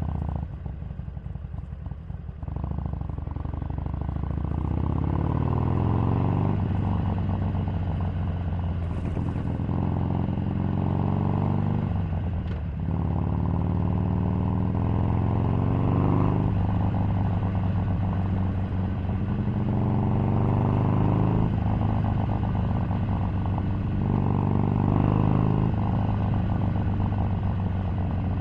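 Harley-Davidson 883 Sportster's air-cooled V-twin pulling through the gears on the move. Its pitch climbs, then falls back at each gear change, several times over, with a clear shift about twelve seconds in.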